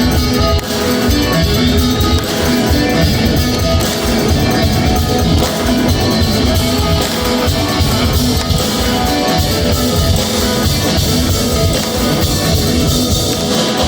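Rock band playing an instrumental passage, guitar over a drum kit.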